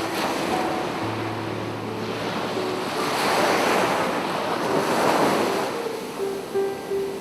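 Sea waves washing onto a beach, the surf swelling to its loudest a few seconds in and then falling back. Soft piano notes sound underneath.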